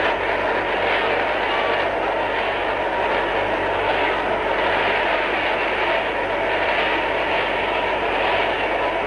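A large congregation praying aloud all at once: many voices shouting their own prayers together and blending into one loud, steady wash of sound with no single voice standing out.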